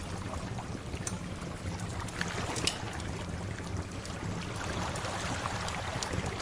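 Steady wash of sea waves with a low rumble, with a few sharp crackles from a wood fire scattered through it.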